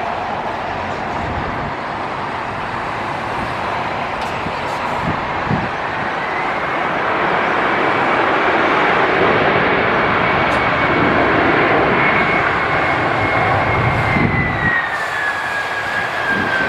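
Jet engines of a FedEx Boeing 767-300F twin-engine freighter on landing approach, a steady rushing roar that grows louder as the aircraft nears. A high engine whine comes in as it approaches and drops in pitch near the end as the aircraft passes.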